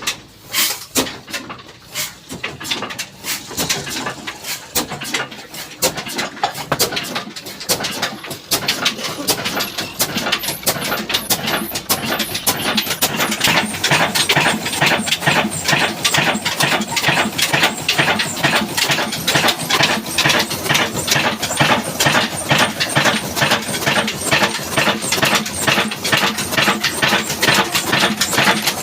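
Old black diesel engine starting up: irregular knocks at first, then after about twelve seconds a steady, even beat that grows louder as the engine settles into running.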